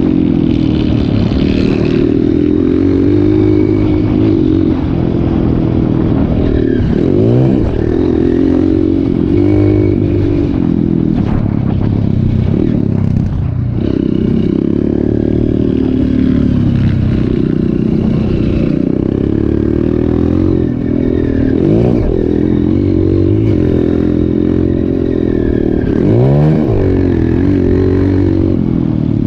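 Trail motorcycle engine running loudly, its revs rising and falling, with several quick sharp revs.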